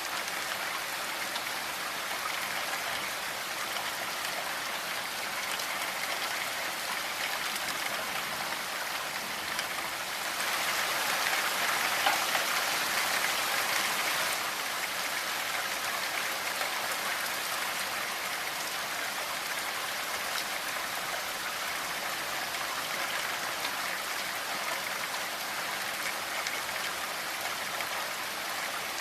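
Steady rainfall, a dense even patter of raindrops, growing a little heavier for a few seconds about a third of the way through, with one brief sharper drop or splash in that stretch.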